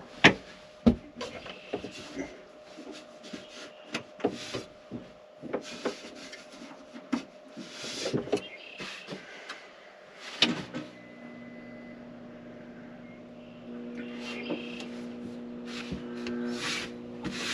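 Scattered clicks and knocks of hands and tools working on the trailer's battery wiring, then about ten seconds in a steady electrical hum starts and carries on, a little louder a few seconds later: the trailer's electrical system coming on as power is restored.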